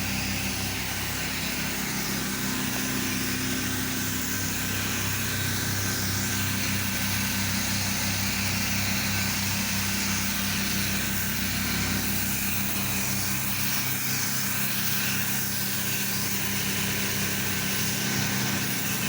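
Pressure washer's small engine running steadily, with the even hiss of the high-pressure water spray rinsing down a surface.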